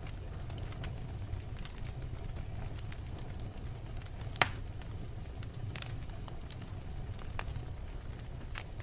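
Wood fire burning in a fireplace: a steady low rumble of flames with scattered crackles from the burning logs and one sharp, louder pop about halfway through.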